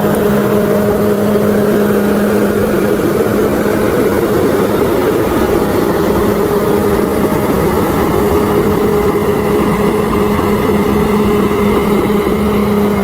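Bulldozer's diesel engine running steadily at a constant pitch, with a dense mechanical rumble throughout.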